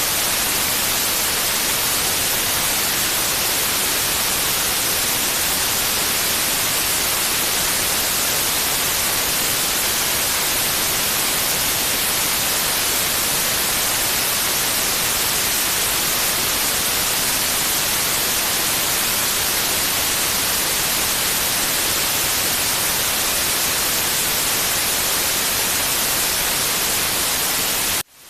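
Steady white-noise hiss, even and unchanging, with most of its energy high up; it cuts out abruptly near the end.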